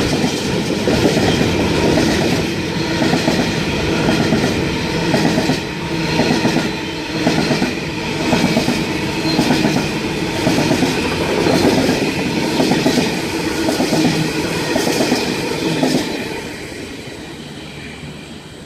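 A train passing through the station, its wheels clacking over the rail joints in a steady repeating rhythm, then fading away near the end as it moves off.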